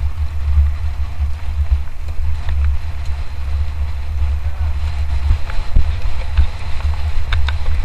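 Wind rumbling steadily on the microphone of a mountain bike on a fast race descent, with scattered clicks and rattles from the bike over rough ground.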